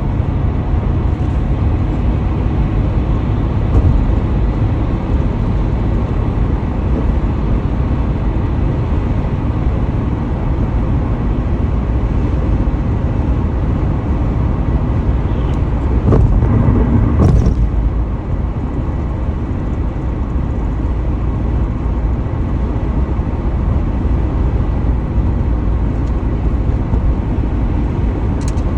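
Steady road and tyre noise from a car driving at highway speed, with a low rumble underneath. A brief louder swell comes a little past the middle.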